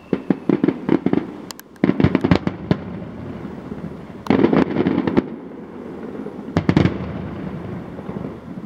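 Aerial firework shells bursting in four rapid volleys of sharp bangs with crackling between them, each volley dying away into a rumbling echo.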